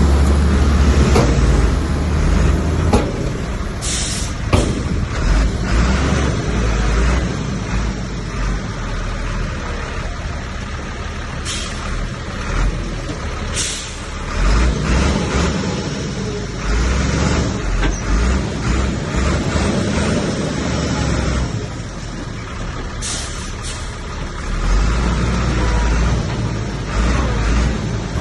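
Heavy diesel earthmoving machinery working: a deep, steady engine rumble that swells and eases, with several short, sharp noises a few seconds apart.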